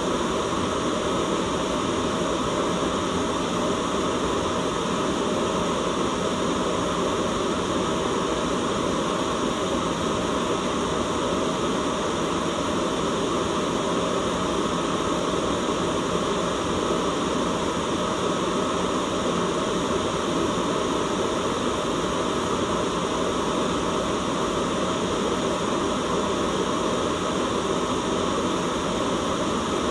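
Continuous white noise: a steady, unchanging hiss with no breaks.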